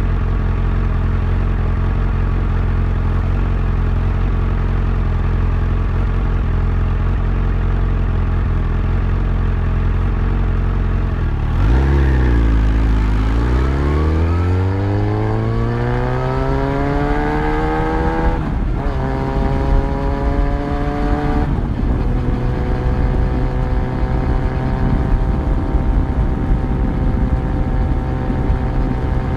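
Yamaha FZ1's inline-four engine under way, running steadily at low revs. About eleven seconds in, the revs dip and then climb, broken twice by gear changes, before settling into a steady cruise.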